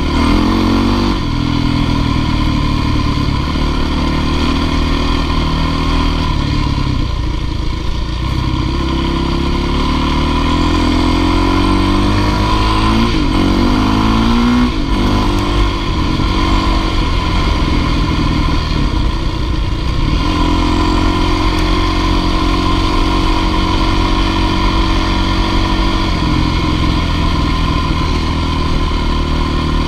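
Dirt bike engine running hard, its pitch rising and falling as the throttle is worked, with a few quick revs near the middle.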